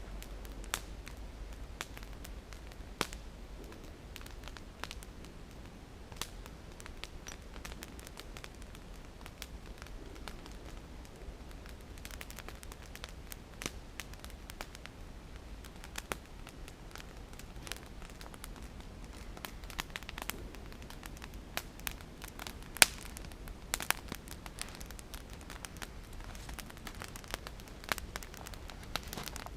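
Wood campfire crackling, with irregular sharp pops and snaps over a low steady hiss; a few louder pops come about two-thirds of the way through.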